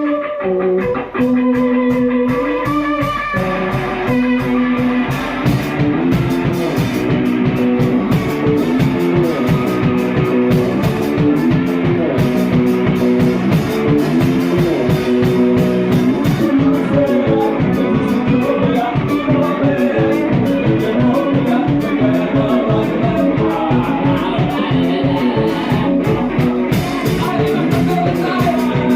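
Rock music: a guitar plays held notes, and from about four seconds in, drums join with a steady beat.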